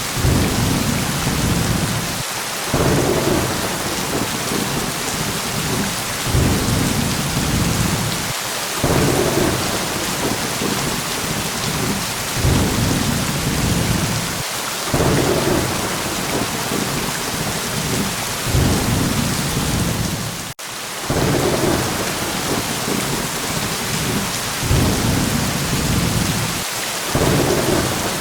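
Steady heavy rain hissing, with low thunder rumbles swelling and fading again every few seconds. The sound drops out for an instant about two-thirds of the way through.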